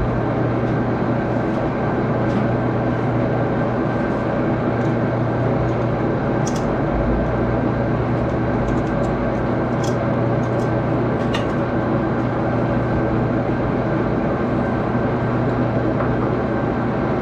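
Axelson engine lathe running steadily while a knurling tool is worked into a small screw blank, with a few faint clicks.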